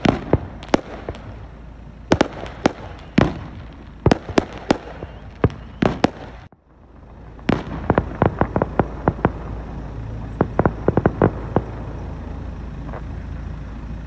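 Aerial fireworks bursting in a string of sharp bangs and pops. A brief gap comes about halfway through, after which the pops come quicker and closer together.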